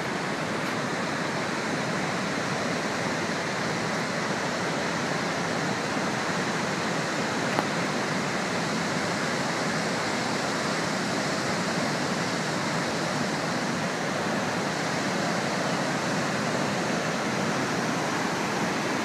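Victoria Falls: a steady, even rush of a huge volume of falling water, unchanging throughout.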